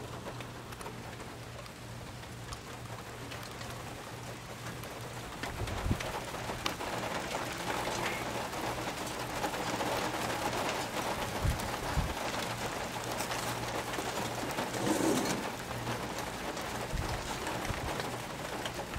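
Birds calling in the background over a steady low hum, with a few short knocks.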